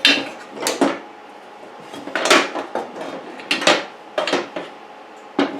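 Metal clanks and rattles, about six separate knocks with a short ring, as the welded homemade two-stroke expansion pipe is handled and turned over while being checked for a hole in a weld.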